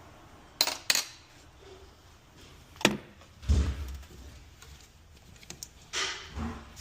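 Hand tools and small metal parts clinking while being handled: two sharp clicks close together near the start, another about three seconds in followed by a dull thump, and a few lighter knocks near the end.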